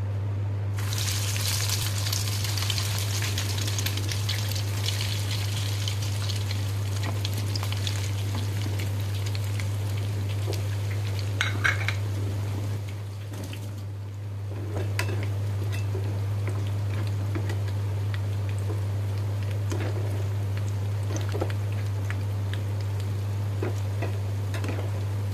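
Eggplant pieces deep-frying in hot oil in a kadai: a loud sizzle breaks out about a second in and gradually eases to a steady bubbling. A metal slotted spoon clinks and scrapes against the pan a few times near the end, over a steady low hum.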